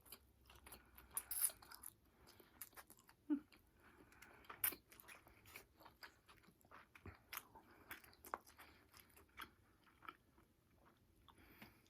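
A person chewing and biting into food close to the microphone: soft crunches and wet mouth clicks, scattered irregularly and quiet throughout.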